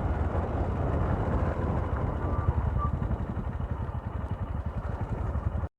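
Honda SP 125's single-cylinder engine running as the motorcycle is ridden along, a steady low pulsing note with road noise. It cuts off suddenly near the end.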